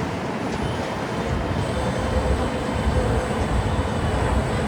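Theme-park parking tram running along the road, a steady rumble of its drive and tyres with road and wind noise, heard from a seat on board. A faint, steady high tone comes in about a second and a half in.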